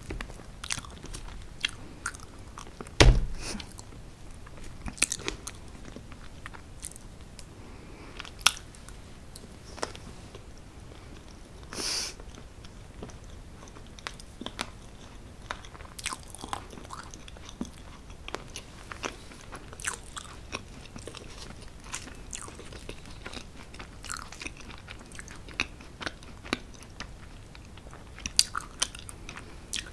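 Close-miked eating sounds of chocolate cake being chewed and bitten: soft mouth clicks and smacks throughout. A single louder thump comes about three seconds in.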